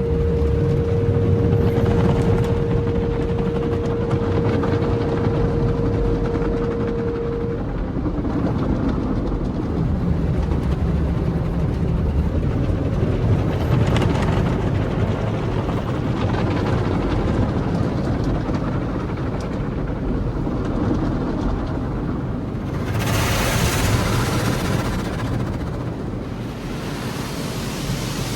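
Automatic car wash machinery heard from inside the car: a steady low rumble with the wash of water and spray over the body, and a steady single tone holding for the first seven or so seconds. Near the end a louder hissing rush of spray or air comes on for a few seconds.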